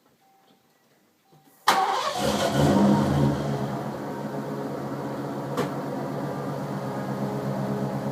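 1989 Lincoln Town Car's 5.0-litre V8 starting about two seconds in through an aftermarket exhaust with FRPP headers, an X-pipe and Flowmaster Super 44 mufflers: it catches at once, flares up briefly, then settles into a steady idle with a low growl.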